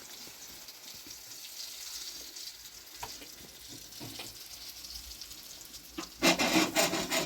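A soft crackling hiss with scattered small clicks swells near the end into about a second of loud, dense crackling.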